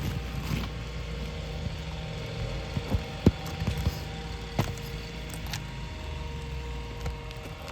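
Scattered clicks and knocks of metal tools prying roofing nails out from under asphalt shingles, the sharpest about three seconds in, over a steady low hum.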